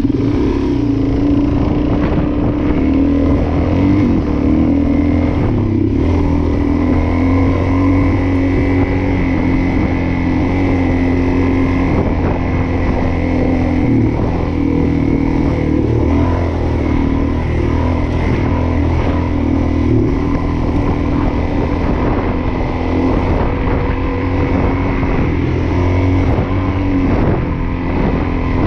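Suzuki DR-Z400S's single-cylinder four-stroke engine running steadily while being ridden, its pitch shifting slightly with the throttle.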